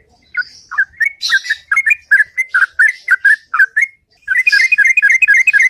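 Yellow-vented bulbul singing loud whistled notes, about two or three a second, then after a brief pause near the middle breaking into a fast rolling run of notes: the ropel song prized by bird keepers.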